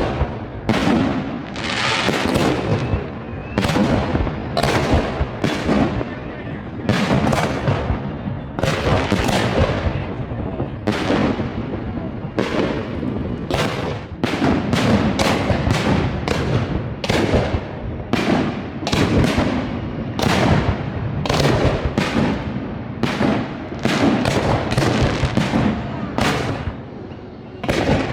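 Fireworks display: aerial shells bursting in quick succession, about one or two bangs a second, each trailing off in a crackling hiss, with a brief lull near the end.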